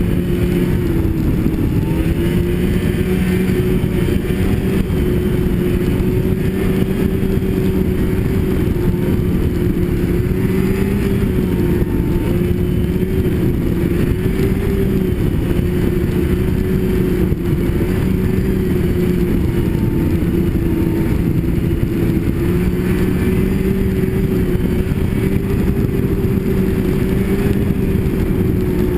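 Snowmobile engine running at a steady cruising speed, its note holding nearly level with slight rises and dips, over a constant rush of noise from the track and wind.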